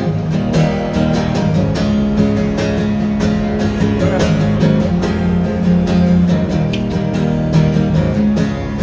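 Acoustic guitars strumming an instrumental interlude of a pop song, with no singing, in a steady rhythm.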